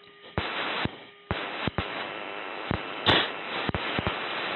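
Heavy breathing into an oxygen-mask microphone over the F-16 cockpit intercom: rushes of hissing breath that start and stop sharply, with short clicks in between, during a hard manoeuvre.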